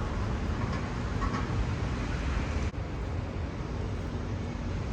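Steady road traffic rumble, with a brief dip a little past the middle.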